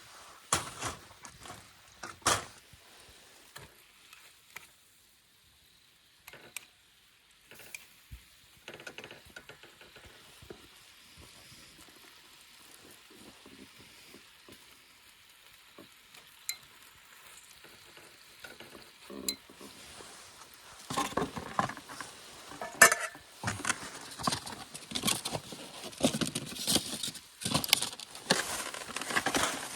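Food sizzling and being stirred in a pan, with scattered clicks of utensils. The sizzling becomes louder and denser about two-thirds of the way in.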